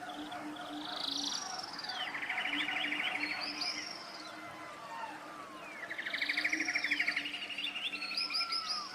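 A songbird in forest singing the same song phrase twice, each phrase a mix of swooping whistles and a fast rattling trill, with other birds calling faintly around it.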